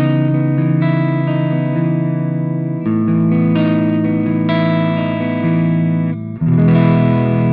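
Electric guitar playing sustained chords through the Mooer Red Truck's Pure Boost module switched on, the chord changing every second or two with a brief break near the end. The boost makes the tone fuller, with more overtones and a slight touch of overdrive.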